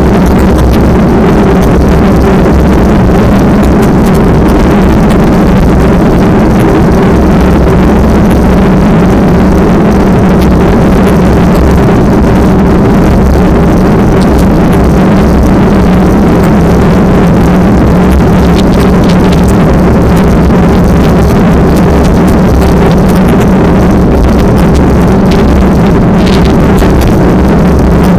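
A loud, steady engine drone holding a constant speed.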